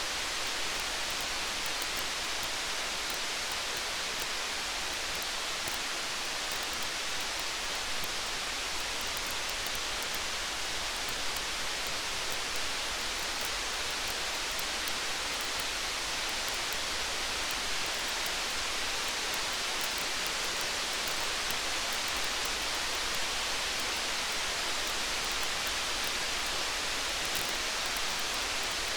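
Steady rain, an even hiss that holds without change, with faint tiny ticks scattered through it.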